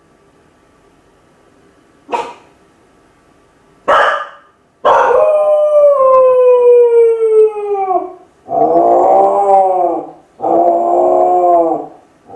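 Kai Ken dog howling while left home alone, a lonely cry. Two short barks, then a long howl sliding down in pitch for about three seconds, followed by two shorter howls.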